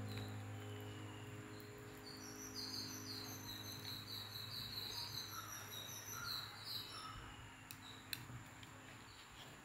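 Piano music fading out, then a bird singing a quick run of high chirps for several seconds. Two faint sharp clicks come near the end.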